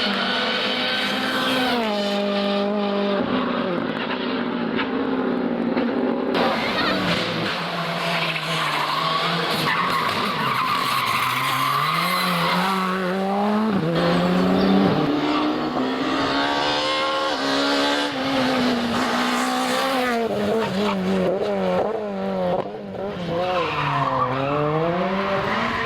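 Rally car engine revving hard, its pitch climbing and dropping again and again as it works through the gears and the corners.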